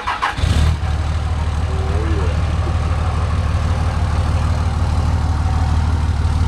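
Dodge Ram 2500 pickup engine catching just after the start and then idling with a steady low rumble.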